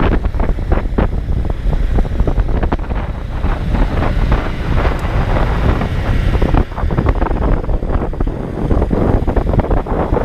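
Wind buffeting the camera microphone while riding: a loud, low, gusting rumble.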